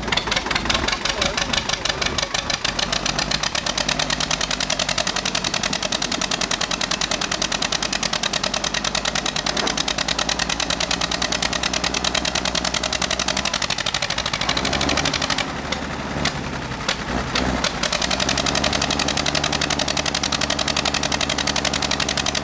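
Tractor engine running with a fast, even firing beat; it drops briefly about fifteen seconds in and then picks up again.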